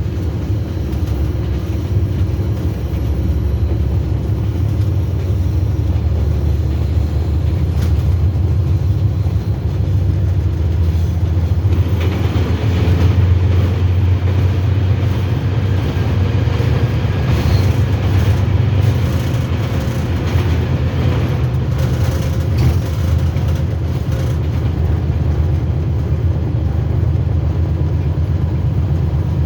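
Train running on the rails: a steady, loud low rumble. From about twelve seconds in a brighter rattling noise joins it, with scattered clicks.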